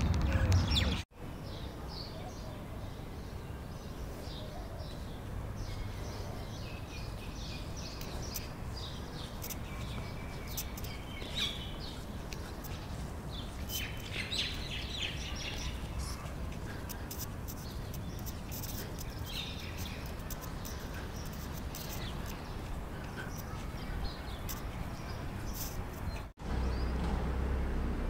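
Small birds chirping: many short, high calls scattered through, over a steady outdoor background rumble.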